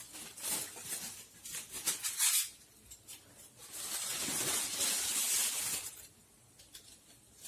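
Aluminium foil being peeled off the top of a cooking pot, crinkling and crackling: a scatter of short crackles and clinks in the first two seconds or so, then a steady run of crinkling about four to six seconds in.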